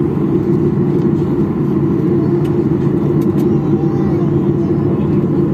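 Steady low rumble of a Boeing 737-800's engines and airframe heard inside the passenger cabin, even and unchanging throughout.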